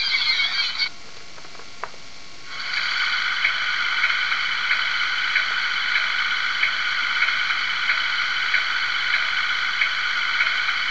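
The sound decoder in a Hornby Class 90 model electric locomotive plays electric-loco running sounds through its small speaker as a steady hum of several tones. The hum cuts off about a second in, a single click follows, and it comes back about two and a half seconds in with a faint regular tick roughly every 0.6 seconds.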